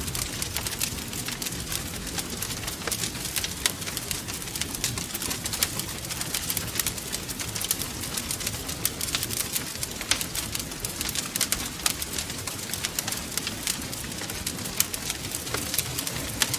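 Wood fire crackling steadily, with many small sharp pops and snaps over a low rumble.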